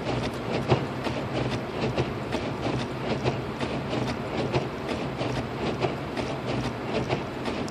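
Inside the cabin of a 2006 Lexus IS250 AWD driving on a snow-covered road: steady road and engine drone with frequent short clicks and knocks.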